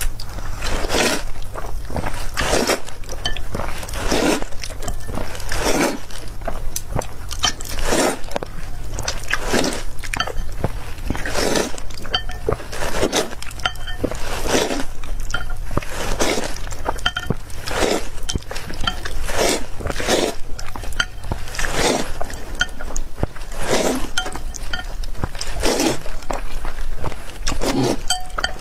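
Close-miked chewing of spicy fire chicken noodles (Buldak-style), at a steady rhythm of about one chew a second, with small clinks of utensils on the dish.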